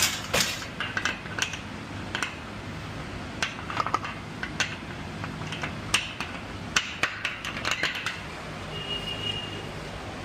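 Ratchet tie-down straps being worked: irregular sharp metal clicks and clanks of the ratchets and hooks as the load is strapped down.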